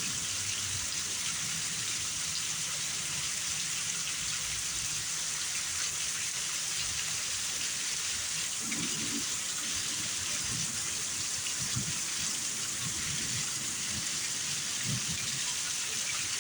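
Heavy rain falling steadily during a thunderstorm, an even, unbroken hiss of rain on surfaces.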